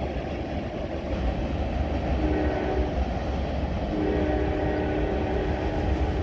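Freight train with tank cars rumbling past on the rails, and a locomotive air horn sounding a short blast about two seconds in and a longer one from about four seconds in.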